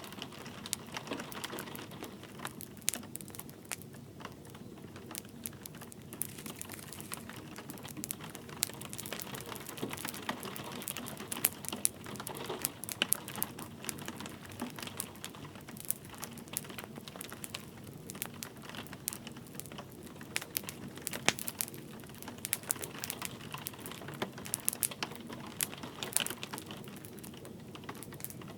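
Wood fire crackling in a fireplace: many sharp, irregular cracks over a soft, steady hiss of light rain.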